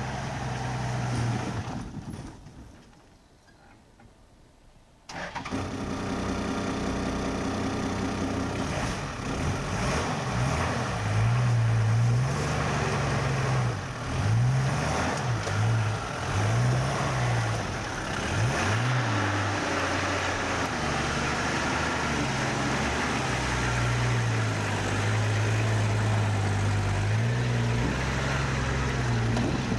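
Four-wheel-drive vehicle's engine working up a steep bush track, the revs rising and falling repeatedly, then holding steady. The sound drops away for about three seconds near the start.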